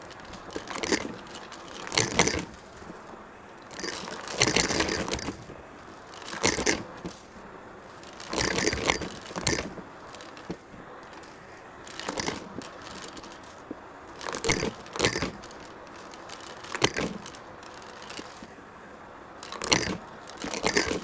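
Vacuum cleaner's flat brush floor tool pushed and pulled across a hard floor, each stroke a short scraping, clattering burst every one to two seconds, over the steady sound of the running vacuum.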